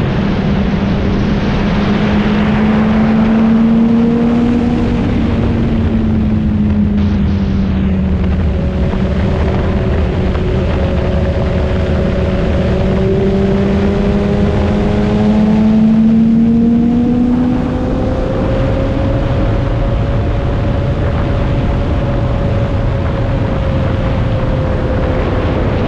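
Motorcycle engine running at riding speed, its note slowly rising and falling with the throttle, with a brief dip around two-thirds of the way through, over a steady rush of wind noise.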